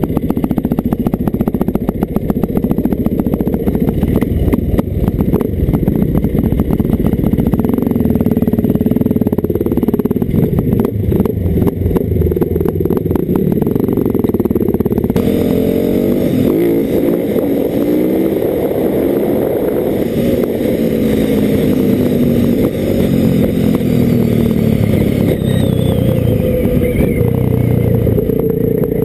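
Dirt bike engine running hard as the bike is ridden, with rapid firing pulses at first. About halfway through the sound changes abruptly, and after that the engine note rises and falls with the throttle.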